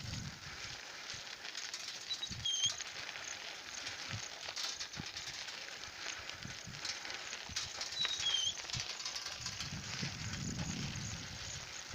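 Outdoor ambience: a steady hiss with a bird's short chirp repeating every few seconds, a few low knocks, and a low rumble swelling and fading from about halfway to near the end.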